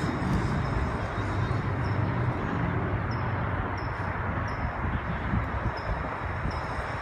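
Steady outdoor noise with a low rumble that fades about halfway through, and a small bird giving short, high chirps about every two-thirds of a second from about three seconds in.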